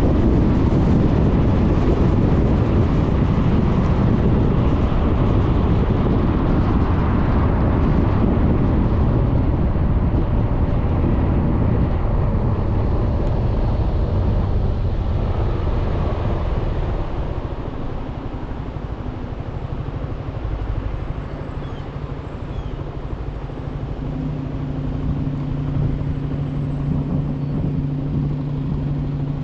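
Suzuki Burgman 400 scooter riding along: wind rush on the mounted camera's microphone and road noise over the engine. About two-thirds of the way through the noise eases as the scooter slows, and near the end a steady engine hum at an even pitch comes through.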